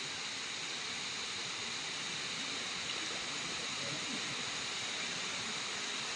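Steady rushing of a waterfall and its stream.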